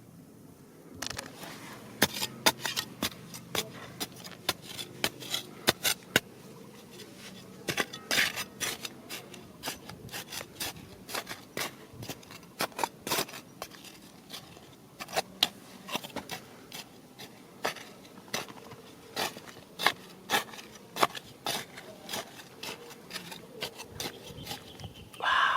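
Irregular sharp clicks and knocks with some scraping, as of stones and gravel being dug through and handled. The clicks come in quick clusters, heaviest from about two seconds in.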